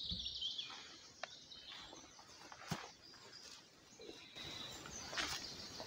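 Faint bird chirping with a few light clicks and rustles, and one sharp click near the middle.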